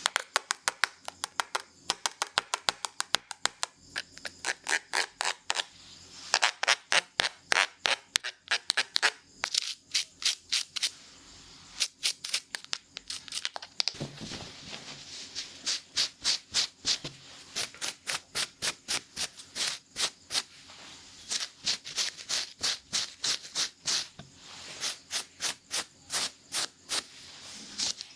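Barber's scissors snipping close to the microphone in quick, regular runs of sharp snips, several a second, with short pauses between runs.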